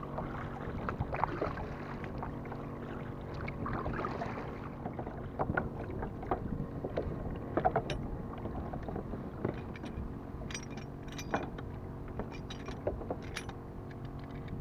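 Water lapping and splashing against a kayak's hull, with scattered small knocks and clicks of gear on the boat.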